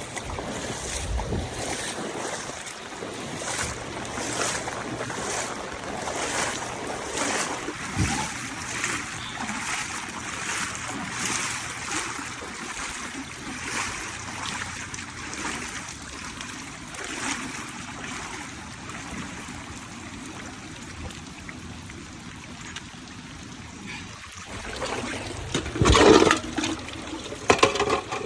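Floodwater sloshing and splashing in a steady rhythm, fading for a while and then splashing louder near the end.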